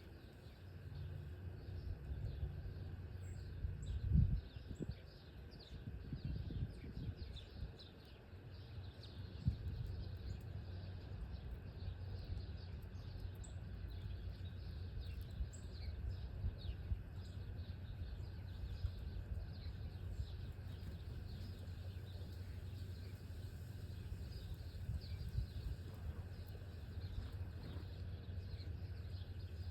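Small birds chirping, with many short, scattered calls over a steady low rumble of outdoor background noise; a low thump about four seconds in.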